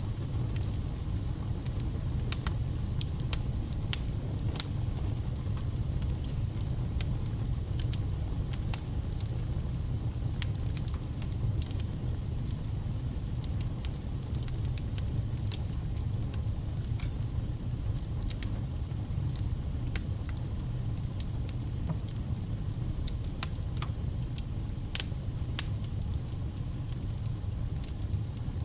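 Wood fire burning: firewood crackling and popping with irregular sharp snaps over a steady low rumble of the flames.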